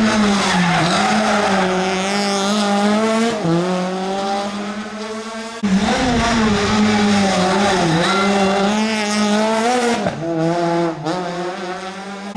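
Rally car engines at full effort on a special stage, revving up and falling back repeatedly through gear changes and corners. The sound breaks off abruptly about five and a half seconds in and again near the end, jumping to another car.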